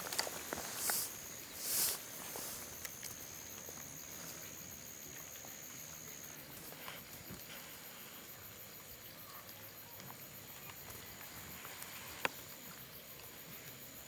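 An insect trilling on one steady high pitch, pausing briefly about six seconds in and again near the end. Two short rustling bursts about a second apart near the start are the loudest sounds, and there is a single sharp click about twelve seconds in.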